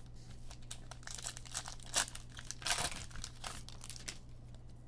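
Trading-card pack wrapper and cards being handled: a run of quick crinkling and tearing rustles, loudest around two to three and a half seconds in, over a faint low hum.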